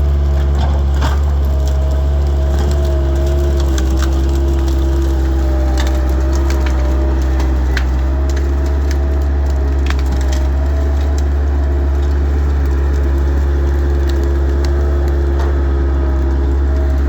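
An engine-driven saw running steadily through black walnut wood: a constant low engine drone with a wavering held tone over it, and scattered sharp crackles of wood splintering.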